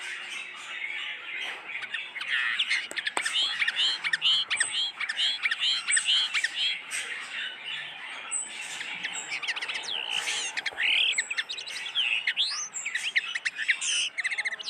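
A flock of caged pet birds chattering, with many overlapping chirps and squawks and a run of quick repeated chirps in the first half.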